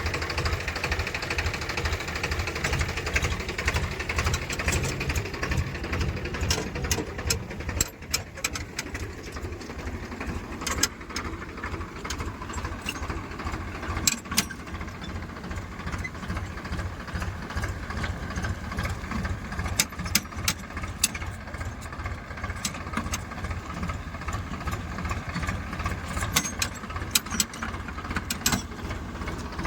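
Heavy machine's diesel engine running steadily with a low, fast pulse, with scattered sharp knocks.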